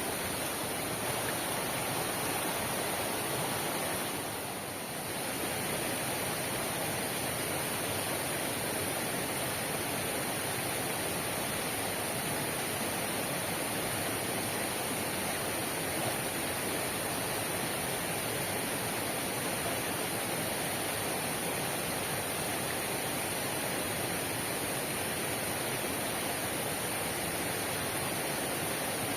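Heavy rain falling steadily, a dense even hiss, easing for a moment about four seconds in.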